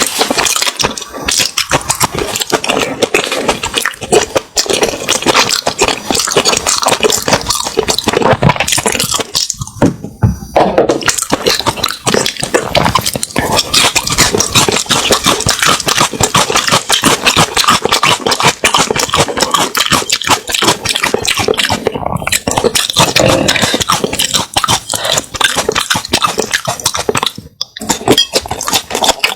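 Close-miked eating sounds: wet chewing and smacking of food in the mouth, a dense run of crackly clicks that breaks off briefly about ten seconds in and again near the end.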